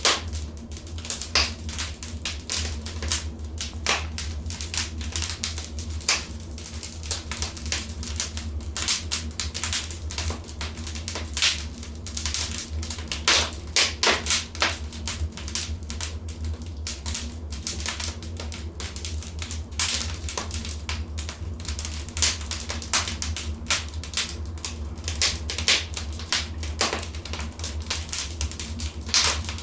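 Wood fire crackling in a fireplace: irregular sharp pops and snaps, some clusters louder than others, over a steady low rumble.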